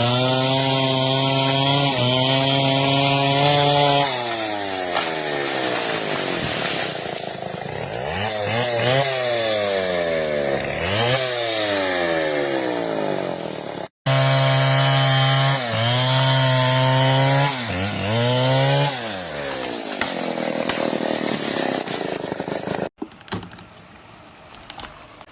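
Two-stroke chainsaw cutting into a large tree. The engine holds a steady high pitch under load, then falls and revs back up several times as the throttle is eased and reopened. The sound breaks off abruptly about halfway, the same pattern returns, and it drops to a quieter sound near the end.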